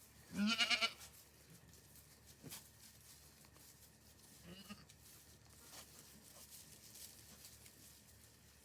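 A goat bleats once, a short wavering call of under a second, then a much fainter short bleat about four and a half seconds in; between and after them only faint rustling and small clicks.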